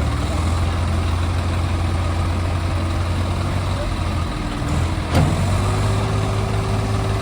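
Swaraj tractor's diesel engine running steadily, its note stepping up slightly after a brief dip about four and a half seconds in. One sharp click or knock about five seconds in.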